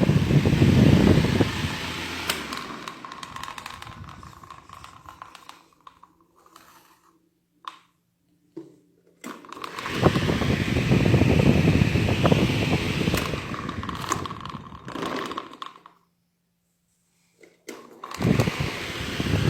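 Britânia Ventus 40 Turbo electric fan blowing air, with wind buffeting the microphone. Twice the airflow fades away over a few seconds and the fan falls quiet, with a few clicks in the first quiet gap, then it starts blowing loudly again.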